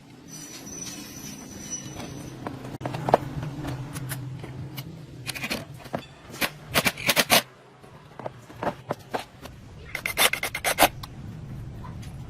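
Scraping and rubbing strokes with scattered clicks, in clusters about halfway through and again near the end, over a low steady hum.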